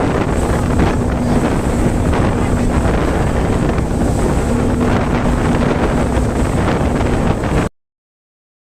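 Ferry under way: wind buffeting the microphone and rushing water over a steady engine hum, cutting off suddenly near the end.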